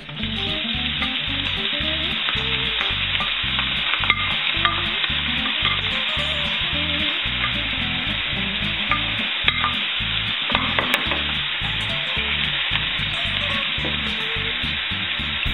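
Sliced mushrooms dropped into hot olive oil and chopped garlic in a frying pan, frying with a loud, steady sizzle that jumps up as they go in. Occasional sharp clicks come from a wooden spoon pushing them off a plate and stirring them in the pan.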